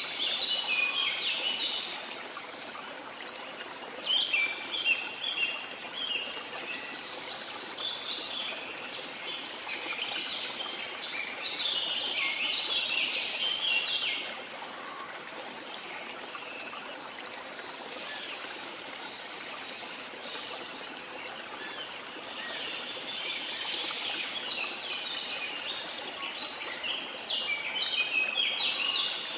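Steady rush of a waterfall, with birds singing rapid chirping phrases in several bouts over it, loudest near the start, in the middle and near the end.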